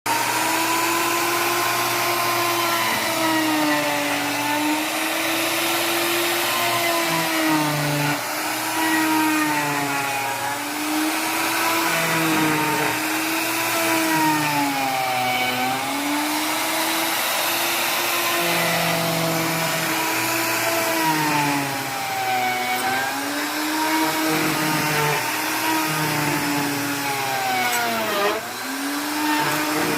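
Electric wood planer running continuously, its motor whine dipping in pitch and recovering every few seconds as the blades bite into the wood slice on each pass and the motor slows under load.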